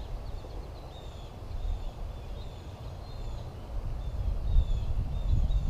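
A bird chirping in a series of short, high, slightly falling notes about twice a second, over a low rumble that grows louder near the end.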